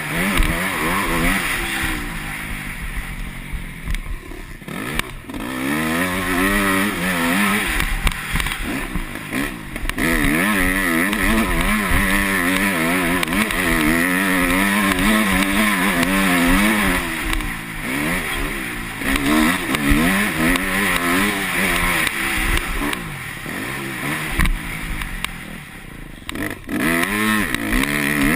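Yamaha YZ250F four-stroke single-cylinder motocross engine under hard riding, its pitch rising and falling again and again as the throttle is worked. The throttle is shut off briefly twice, once a few seconds in and once near the end.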